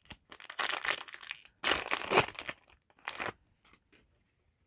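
Foil booster-pack wrapper crinkling as it is handled and torn open, in three bursts, the last one short.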